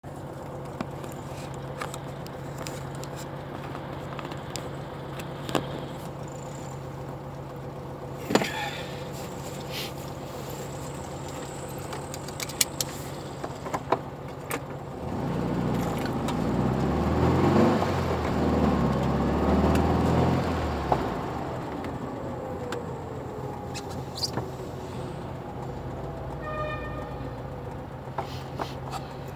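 Car engine idling with a steady low hum, with scattered clicks and knocks. About halfway through, a louder engine rises and falls for several seconds as a car drives past.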